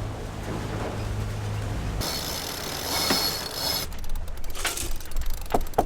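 A steady low hum, then, after an abrupt change about two seconds in, rapid evenly spaced mechanical ratchet clicking from about two-thirds in.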